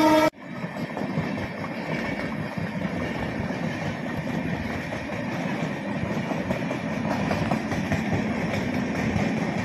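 A horn blast cuts off sharply at the very start. Then a passenger train runs past on the tracks below with a steady rumble of wheels on the rails.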